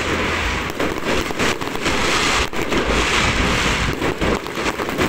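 Electronic firecrackers going off in a dense, continuous crackle of rapid pops.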